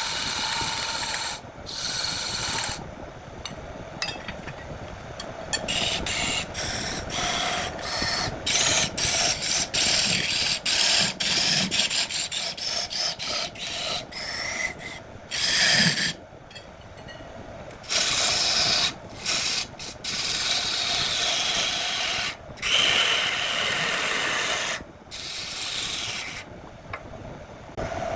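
Wood lathe work: the spinning workpiece rasping and scraping as it is worked by hand. It comes in many short stretches that start and stop abruptly.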